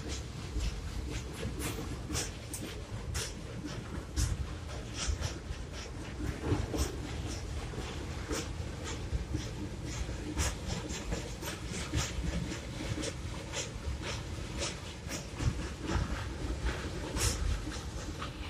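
A train running, with a steady low rumble and many irregular sharp clicks and clanks.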